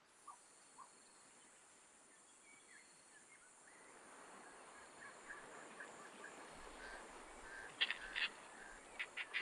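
Birds calling outdoors: faint scattered short calls at first, building to a busy run of chirps, then loud harsh calls in quick series near the end.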